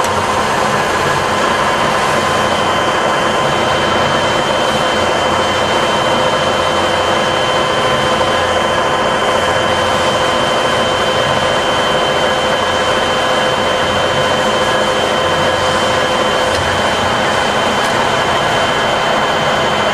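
Cincinnati 012 rise-and-fall milling machine running through an automatic cycle: a steady mechanical running sound with a constant whine at several pitches, the lowest of which drops out about three-quarters of the way through.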